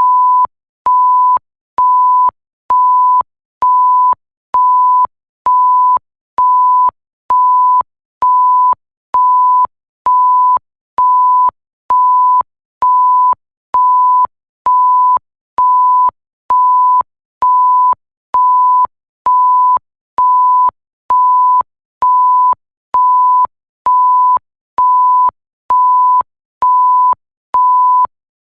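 Censor bleep sound effect: a steady pure tone beeping about once a second, each beep about half a second long, with a small click where each beep starts and stops.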